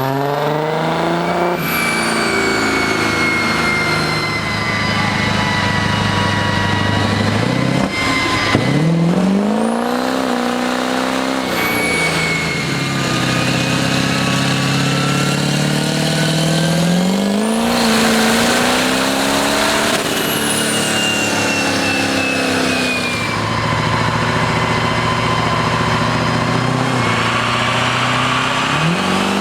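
A motor vehicle engine revving, its pitch climbing and dropping several times with sharp falls, and thin high whistles gliding over it.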